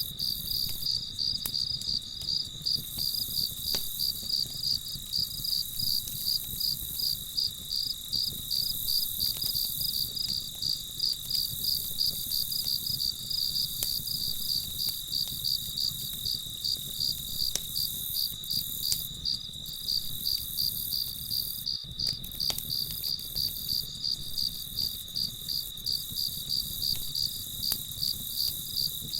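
Crickets chirping in a steady, even pulsing rhythm, with faint scattered crackles of a campfire over a low, steady rumble.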